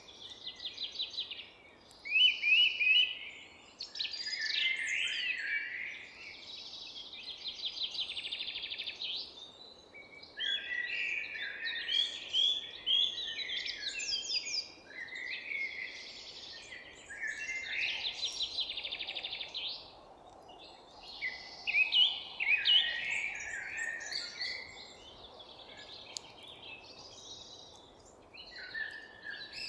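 Songbirds singing in a forest, in chirping phrases of two or three seconds that follow one another with short pauses, over a faint steady low background noise.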